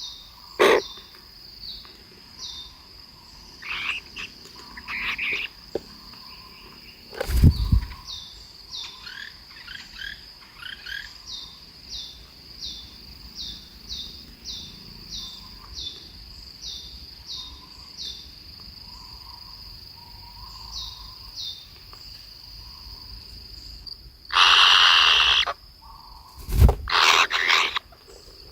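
Birds chirping over a steady high-pitched drone, the short high chirps repeating about twice a second, with a few sharp knocks and a loud rush of noise lasting about a second and a half near the end.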